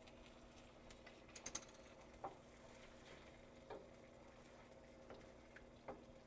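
Near silence: a faint steady hum with scattered light clicks and ticks from a pan of passata and onions cooking in oil.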